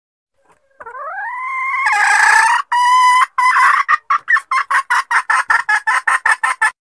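Junglefowl hen calling: one long rising squawk, then a run of short clucks that quickens to about four or five a second before stopping abruptly. This is the hen's lure call, used to draw a wild junglefowl cock out of cover.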